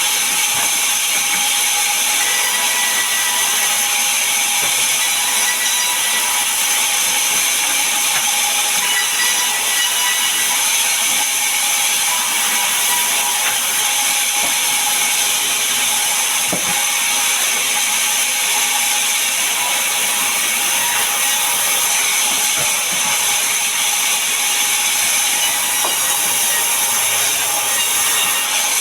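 Sawmill saw cutting a large mahogany log: a loud, steady, high-pitched rush of sawing noise with a few faint whining tones in it.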